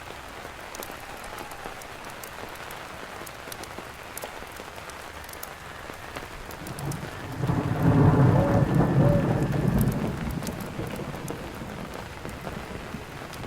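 Steady rain falling, with scattered sharp ticks. A roll of thunder swells about seven seconds in, is loudest around eight seconds, and rumbles away over the following few seconds.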